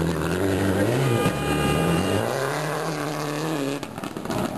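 Rally car engine revving hard through a tight turn, its note climbing and dropping several times as the driver works the throttle and gears.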